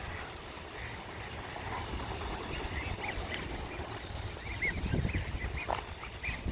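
Ducks calling, a run of short repeated calls from about two and a half seconds in, over low wind rumble on the microphone.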